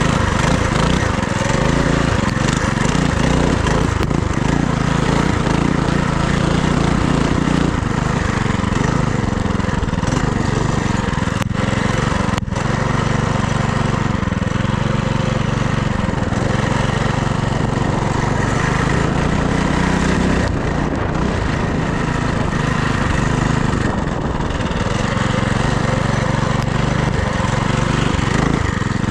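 FRP GMB100 mini bike's small single-cylinder engine running under way, its pitch rising and falling with the throttle, over steady wind noise on the microphone. Two short clicks about halfway through.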